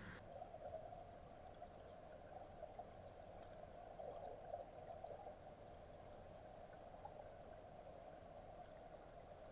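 Faint, steady sound of a mountain stream flowing, an even watery hiss with small swells.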